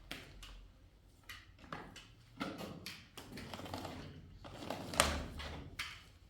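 Irregular knocks, taps and short scrapes of hand tools and materials being handled during building work, with one sharper knock about five seconds in.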